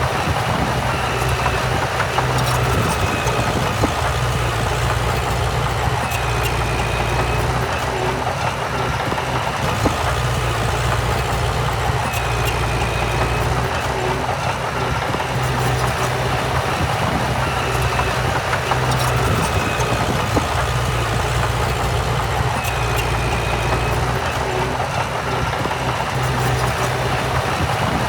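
Heavy diesel earthmoving machinery running steadily, the low engine hum unbroken, with a faint short high tone recurring every few seconds.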